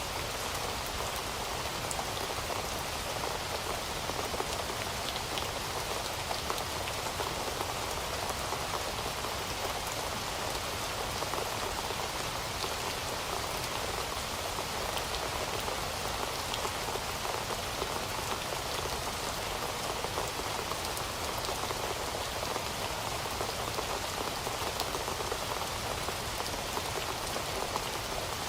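Heavy rain falling steadily, a dense even hiss of drops pattering on a surface with scattered sharper drop ticks.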